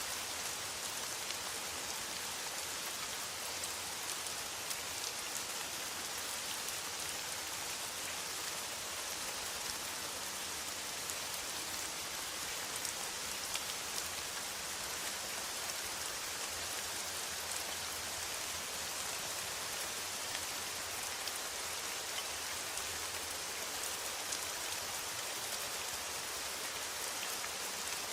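Steady rain falling on a metal roof: an even hiss of heavy rainfall with the patter of individual drops ticking through it.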